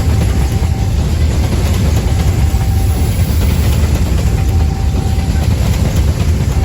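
Coal train rumbling past: a loud, steady, heavy low rumble, with a faint high tone that comes and goes several times.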